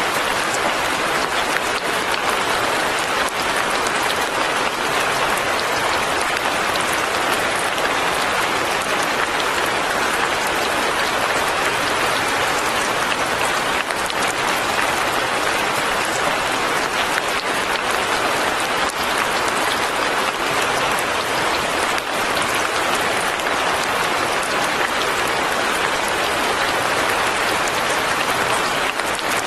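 Light rain falling steadily on a forest cabin and the surrounding leaves: an even, unbroken hiss of many small drops with no rises or pauses.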